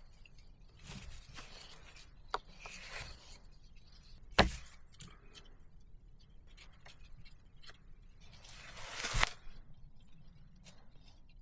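Hand-tool work on wood or earth: three sharp chopping strikes, the loudest about four and a half seconds in and the last preceded by a short swish, with scraping and rustling between them.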